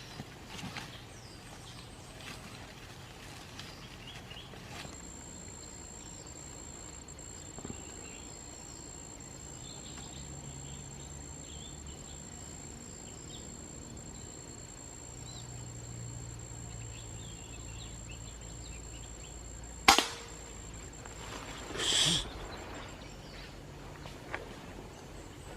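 A single sharp hunting rifle shot about twenty seconds in. Two seconds later comes a short, noisy rustling burst. Before the shot there is only a faint, steady high whine over quiet night background.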